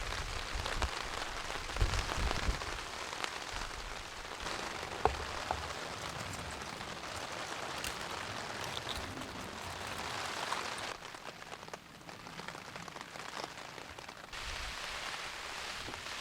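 Steady rain falling, with scattered drops ticking. It eases slightly about eleven seconds in and picks up again a few seconds later.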